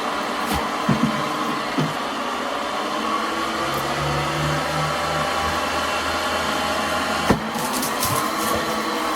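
Electric tennis ball launcher running with a steady motor whine. About seven seconds in there is a sharp thump as a ball is fired, and the whine then climbs back up in pitch as the launch wheels spin up again.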